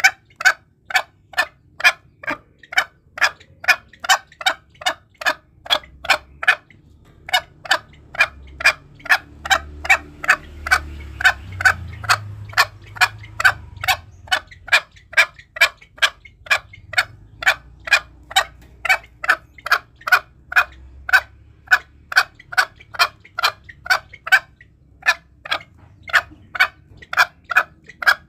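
Green junglefowl giving a fast, even series of short sharp clucking calls, about two and a half a second, with one brief pause about a quarter of the way in. This is a lure call for drawing in wild junglefowl.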